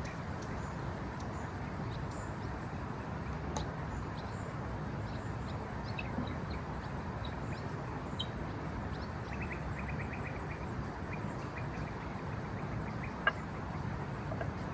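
Woodland ambience: scattered short bird chirps and a brief rapid trill over a steady low rushing background noise, with a couple of sharp clicks.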